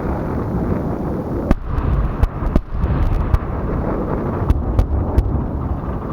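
Gunfire or explosions on a live-fire range: about seven sharp, irregularly spaced reports over four seconds, over a steady rumble of wind.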